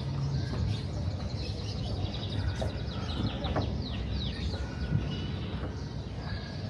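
Many small birds chirping, with rapid short calls and quick falling whistles, over a steady low background hum.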